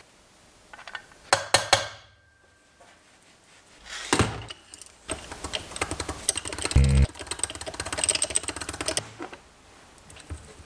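Bursts of rapid mechanical clicking and rattling, with one heavy knock about two-thirds of the way through.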